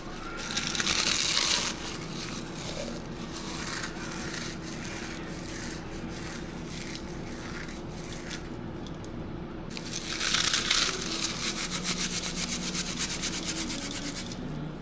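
A dry ingredient being crushed and rubbed by hand as a breadcrumb substitute for burger meat: a short burst of crunching about a second in, then a longer run of quick, rhythmic crunches from about ten seconds in, over a faint steady low hum.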